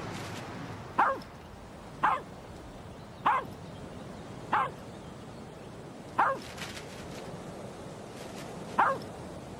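A dog barking six times in single short barks, a second or so apart at first and then with longer gaps.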